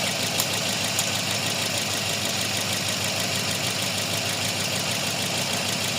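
Toyota Vios engine idling steadily while misfiring on cylinder 4, with no ignition signal reaching the No. 4 coil. A couple of faint ticks come in the first second.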